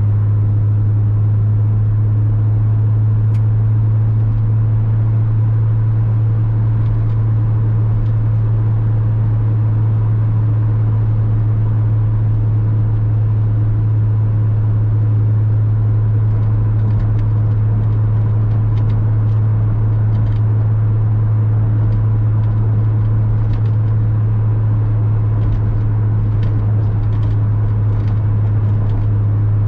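Porsche Boxster 986 flat-six engine droning at a steady, unchanging pitch with road noise, as the car holds an even speed.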